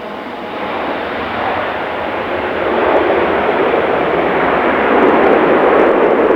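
Landing airliner's jet engines: a loud rushing roar that builds over the first three seconds and then holds.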